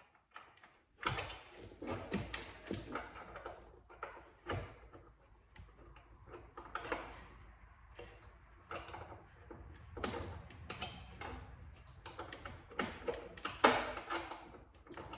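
Irregular clicks, knocks and rustling of hands and tools working on parts in a cramped spot around a car's blower motor, with one sharper knock near the end.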